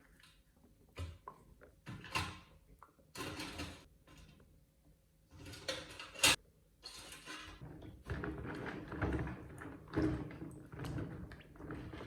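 Hand work on metal parts: irregular knocks and clicks, the sharpest about six seconds in, then a stretch of continuous scraping or rubbing.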